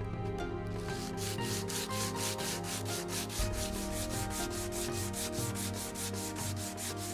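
Fast back-and-forth hand sanding on wood, starting about a second in and going at about five strokes a second, as the wooden handle and sheath are shaped.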